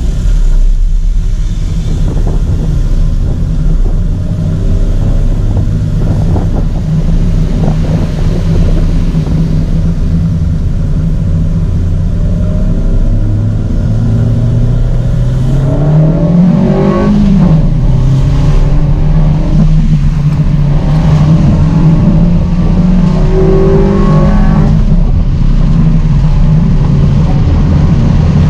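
Volkswagen Saveiro pickup's engine pulling away hard and accelerating, heard from inside the cab. The engine note climbs to a peak about two-thirds of the way through, then drops back and carries on at a steadier pitch.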